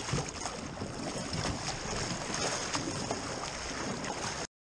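Water splashing and rushing around a kayak under way, with wind on the microphone, cutting off abruptly near the end.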